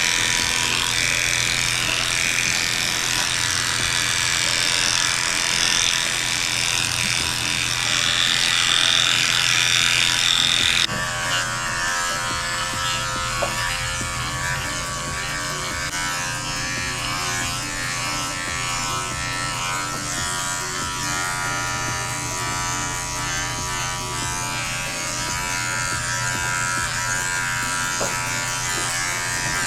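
Electric dog grooming clippers running steadily while shaving a dog's coat to an even length. The sound changes abruptly about eleven seconds in, the higher hiss dropping away and the hum going on at a slightly different pitch.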